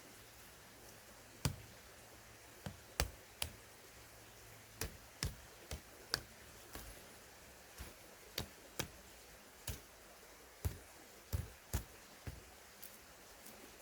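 A series of sharp, short knocks or clicks, about one a second at uneven spacing, some coming in close pairs.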